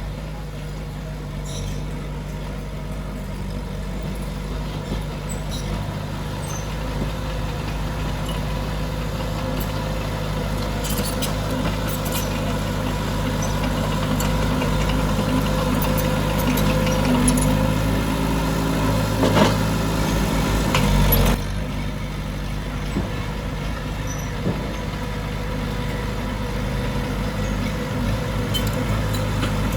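Heavy diesel earthmoving machinery running steadily. It works harder and louder until about 21 seconds in, then eases off suddenly, with occasional metal clanks.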